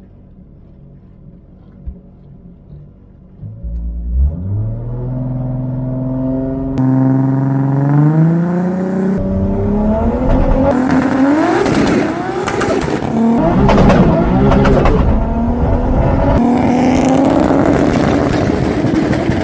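Toyota Supra's 2JZ straight-six with a large single turbo, idling low, then revving up and accelerating hard at full throttle through its TH400 automatic. The pitch climbs, falls back at a gear change and climbs again near the end.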